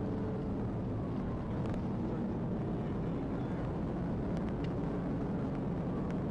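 Steady, loud running noise of a pursuing police vehicle: an even drone with no breaks and a few faint clicks.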